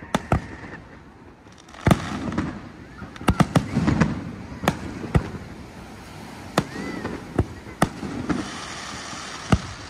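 Aerial fireworks shells bursting in a series of about a dozen sharp bangs, with several coming in a quick cluster about three seconds in.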